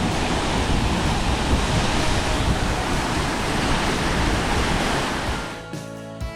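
Steady roar of Wahkeena Falls' falling water, heard close up in its spray. About five and a half seconds in the roar fades down and guitar-like background music comes in.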